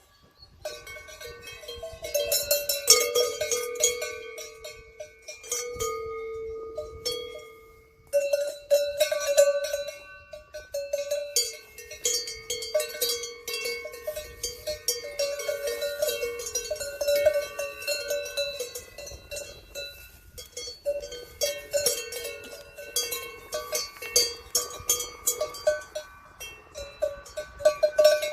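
Several cowbells on cattle clanking irregularly and continuously, at two or three different pitches, with a few brief lulls.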